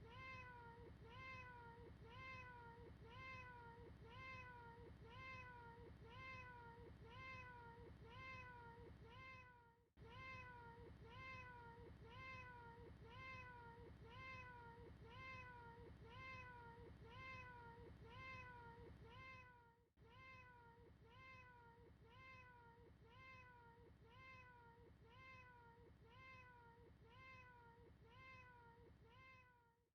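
Faint cat meow looped over and over, the same short call repeating about three times every two seconds, with brief dropouts where the loop restarts about every ten seconds.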